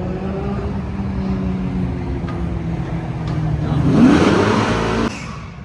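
A car engine running steadily, then revving up with a quick rising pitch about four seconds in, loudest at that point, and cutting off abruptly about a second later.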